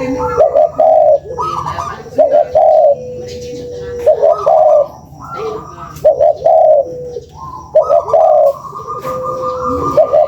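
Spotted dove (tekukur) cooing, a lure call: short coo phrases repeated about every one and a half to two seconds, some overlapping.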